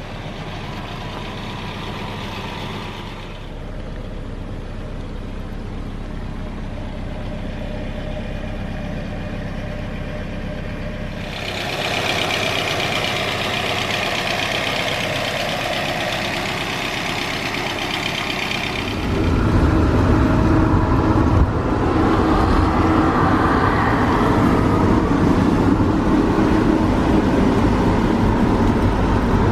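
Car engine running in slow, jammed traffic, heard from inside the car: a steady low hum, with a broad hiss joining about eleven seconds in and the engine rumble growing louder a little after halfway.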